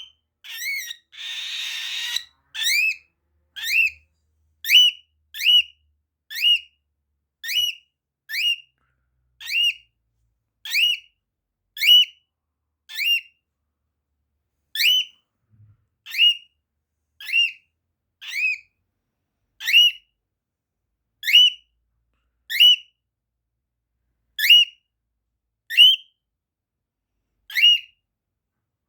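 A bird giving short, rising, whistle-like calls over and over, about one a second: a hungry bird calling for food. A short hiss comes about a second in.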